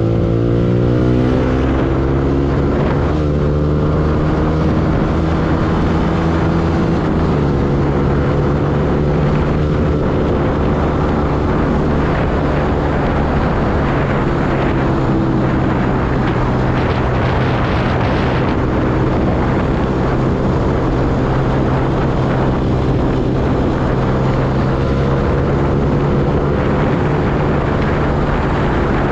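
Yamaha R15 V2 motorcycle's single-cylinder four-stroke engine running under way, its note rising then stepping at a gear change about a second in, with another change around seven seconds, then holding fairly steady revs.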